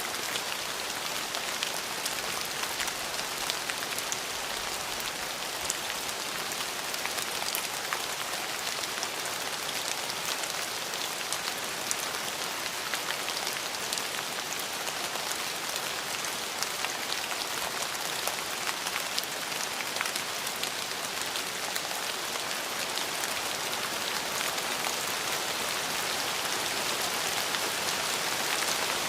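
Steady rain falling on a surface, a dense even hiss with many small drops ticking through it.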